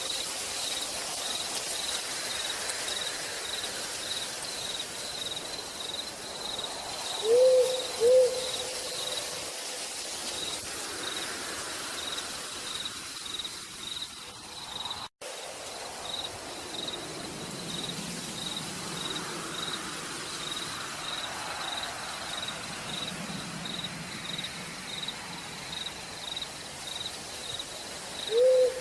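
Night forest soundscape of steady rain hiss under a cricket chirping at a high pitch, about two chirps a second. An owl gives a two-note hoot about seven seconds in and again near the end. The sound drops out for an instant midway.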